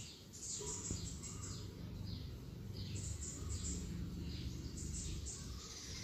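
Small birds chirping: runs of short, high chirps that fall in pitch, several a second, over a steady low rumble.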